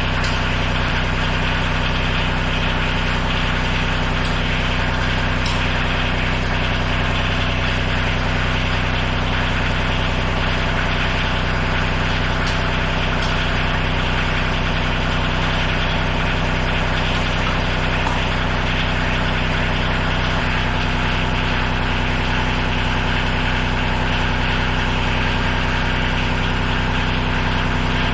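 Tractor engine running steadily at an even speed, with no change in revs.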